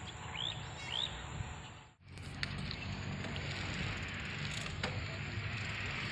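Two short rising bird chirps over outdoor background noise. After an abrupt break about two seconds in, a steady rushing noise of a bicycle ride follows, with a few faint clicks.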